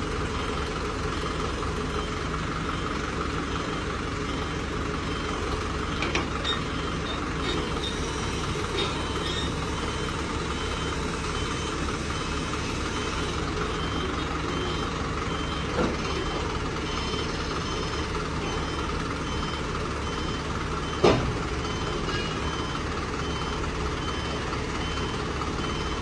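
Heavy truck engine running steadily, with a repeating high-pitched warning beep over it, and two short metallic clanks in the second half, the later one louder.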